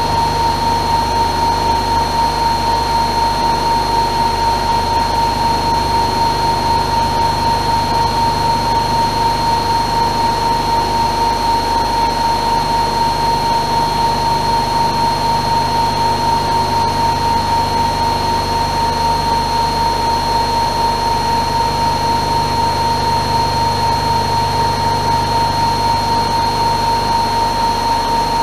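AEG Öko-Lavamat Lavalogic 1600 front-loading washing machine spinning, a steady high whine over a low rumble.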